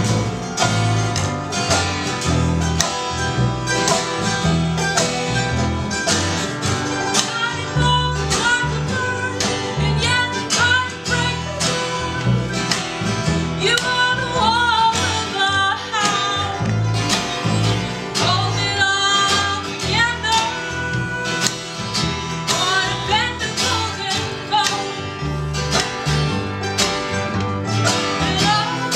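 Acoustic folk string band playing live: strummed and picked guitar over a steady, pulsing bass beat, with a wavering melody line carried above it.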